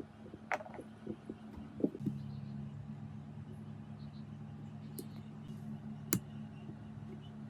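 A few sharp clicks and knocks, like small metal parts being handled, with a steady low hum that starts about two seconds in.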